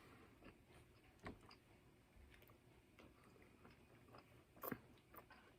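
Near silence, with a few faint short clicks, the clearest about a second in and again near the end.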